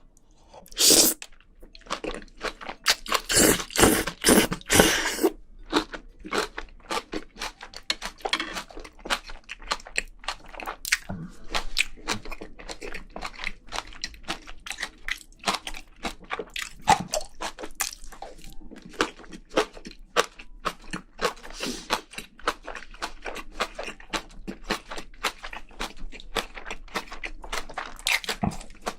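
A person chewing and crunching mouthfuls of haemul-jjim, a spicy braised seafood dish with vegetables and bean sprouts, with irregular crisp crunches throughout. The loudest crunching comes about a second in and again from about three to five seconds in.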